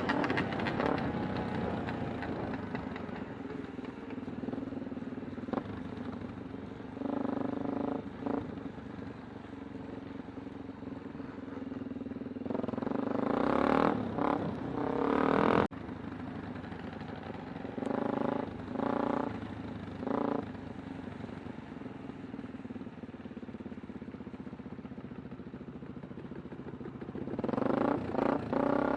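Kawasaki Super Sherpa's single-cylinder engine running while ridden, opening up in several short bursts of throttle, the longest about halfway through.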